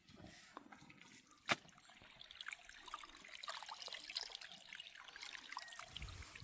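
Faint trickling and dripping water, with one sharp click about a second and a half in.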